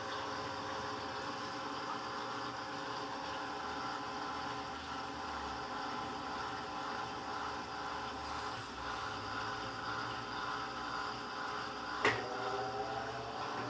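Electrolux LTC15 washing machine running with a steady motor hum. Near the end a sharp click, then a whine that rises in pitch as the motor speeds up.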